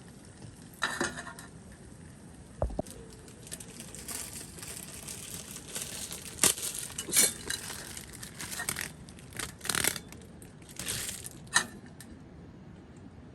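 Dishes and cookware being handled: irregular clinks and short rustling or crinkling noises, with one dull knock about three seconds in.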